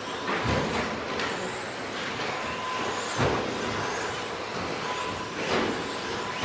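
Several 2WD electric RC racing trucks with 13.5-turn brushless motors running around the track. Their motor and gear whine rises and falls with throttle over a steady rush of tyre noise, with a few short knocks.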